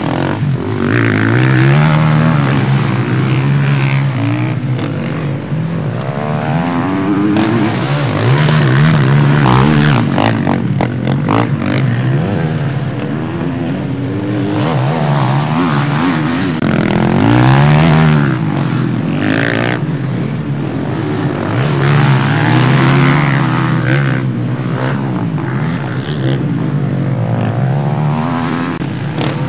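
Motocross motorcycles racing round the track, their engines revving up and falling back again and again as they accelerate and shift, several at once.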